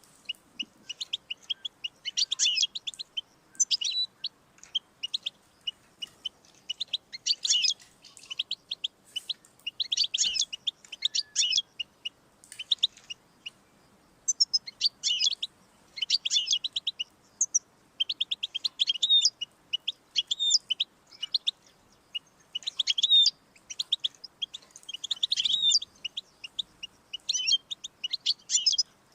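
European goldfinch singing: bursts of fast, high twittering and trilled notes in phrases of a second or two, separated by short pauses.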